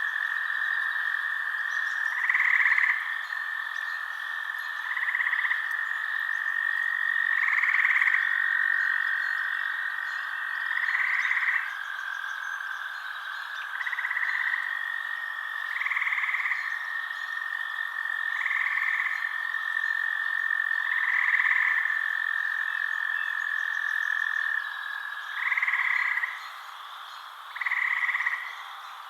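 Night frog chorus: croaking calls repeat every two to three seconds over a continuous high, steady trill, which stops near the end.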